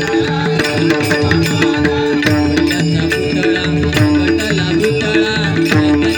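Marathi bhajan music played as the closing gajar: drums and cymbal strokes keep a steady rhythmic beat under held melodic tones.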